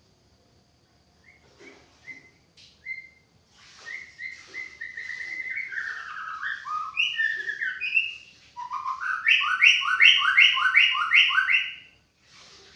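White-rumped shama (murai batu) singing: a few short whistles, then a run of varied gliding whistled notes, building to a loud, fast series of repeated two-part notes, about three a second, that stops shortly before the end.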